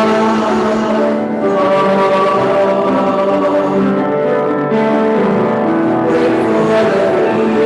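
A group of voices singing a hymn together in long held notes.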